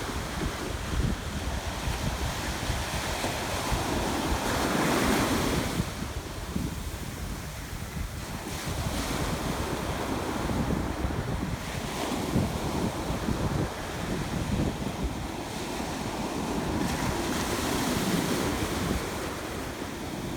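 Ocean waves breaking and washing up on a beach, swelling louder twice, with wind buffeting the microphone.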